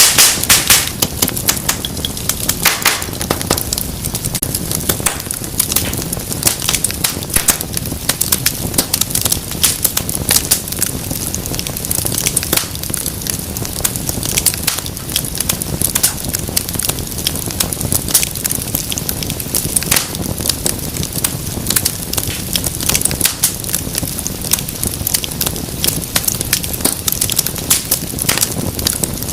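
Wood fire crackling, with dense, irregular sharp pops and snaps over the steady low rush of the flames. A flurry of loud pops comes right at the start.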